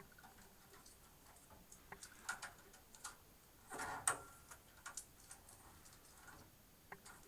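Light clicks and rustling of power-supply cables being handled and pushed into place inside a computer case, with a louder rustle about four seconds in.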